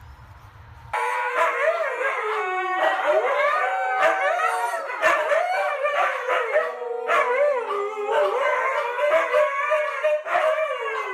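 Dogs howling together, several overlapping voices sliding up and down in pitch. The howling starts abruptly about a second in.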